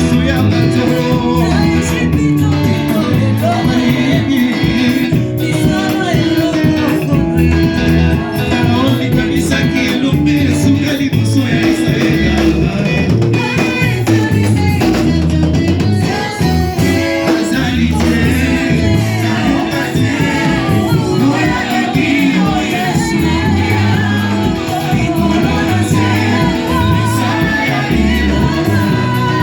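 Live church praise music: singing over a band with guitar and a strong bass beat.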